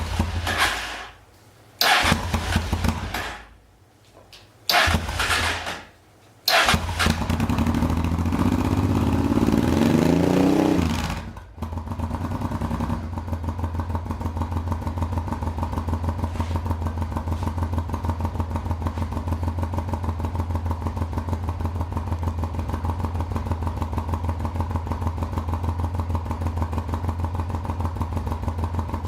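Honda XRV750 Africa Twin V-twin engine, breathing through a new aftermarket exhaust with its dB-killers fitted, being started: three short bursts of cranking, then it catches about six seconds in and runs raised for about five seconds before dropping suddenly to a steady, even idle.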